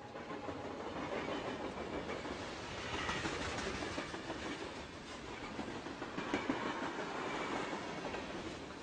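A train running on the rails: the steady rattle and rumble of wheels and cars, swelling a little about three seconds in and again past the middle.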